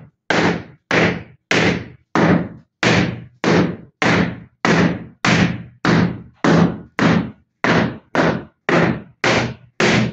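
Rhythmic knocking strokes, about two a second and evenly spaced, each one sharp and dying away quickly, as the flexible-facing material is worked for the imprint.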